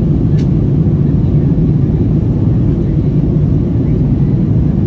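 Steady low rumble of an Airbus A321neo in flight, heard inside the passenger cabin: engine and airflow noise.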